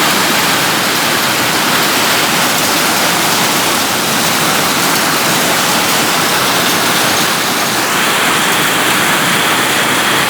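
Heavy rain pouring down in a thunderstorm, a steady loud hiss.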